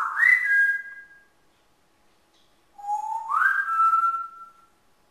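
African grey parrot whistling twice, about three seconds apart: each whistle slides up and then holds a clear note that steps slightly lower before fading.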